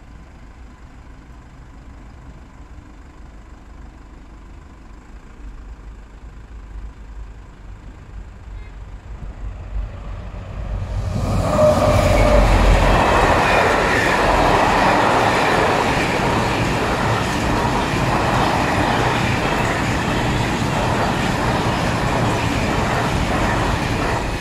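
Freight train passing at close range: a low rumble that grows over the first ten seconds, then about eleven seconds in the locomotive arrives and the wagons go by, loud and steady.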